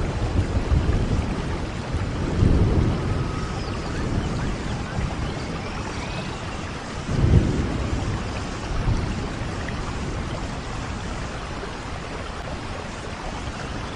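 Steady rain falling with thunder rumbling low in the background, swelling a few times, most strongly about seven seconds in.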